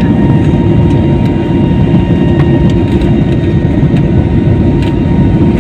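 Jet airliner engines heard from inside the cabin: a loud, steady low rumble with a faint steady whine above it.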